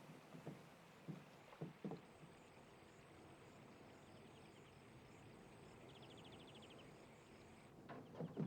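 Footsteps on the wooden ties of a railroad trestle: a few soft steps early, then again near the end, over quiet outdoor ambience. A brief high chirring trill comes twice in between.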